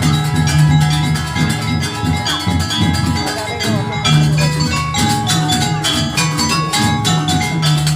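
Jaranan gamelan accompaniment playing: drums and struck metal mallet percussion in a dense, steady rhythm over recurring held low tones.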